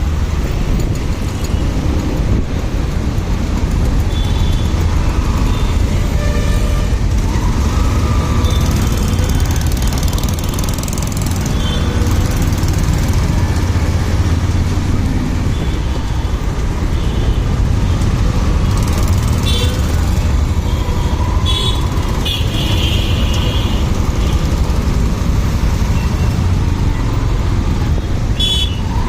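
Motorcycle ride through city traffic: a steady low rumble of wind on the microphone mixed with engine and road noise, with several short vehicle horn toots in the second half.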